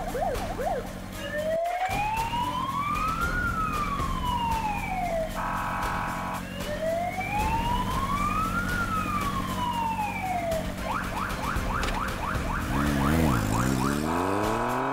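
Police car siren wailing in slow rising and falling sweeps, twice broken by a steady blaring tone. Near the end it switches to a fast yelp, over a low engine rumble.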